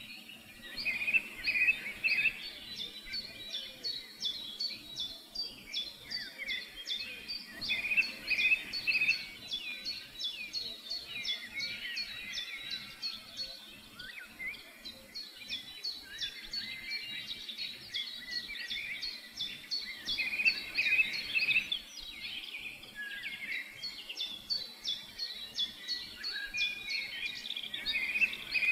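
Several wild birds singing: dense, rapid, high chirping throughout, with a warbled phrase that recurs every several seconds.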